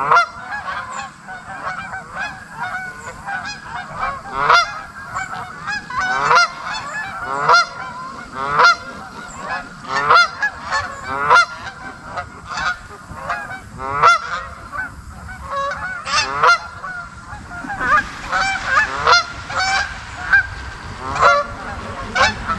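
Geese honking: many overlapping calls, with louder single honks every second or two over a constant background of flock calling.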